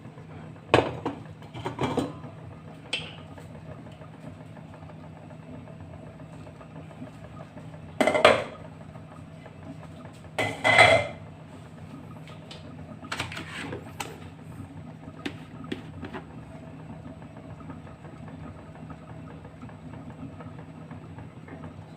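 Pot and cooking utensils knocking and scraping now and then while oil is put into the pot and spread over its base. The loudest clatters come about 8 and 11 seconds in, over a steady low hum.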